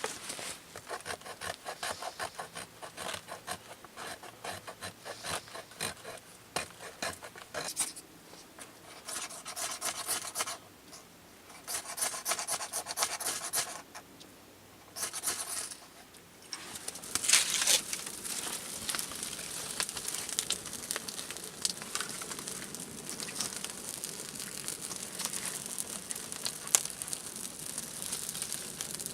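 Rhythmic rasping strokes on wood, in several runs broken by short pauses, followed by a steadier scraping noise.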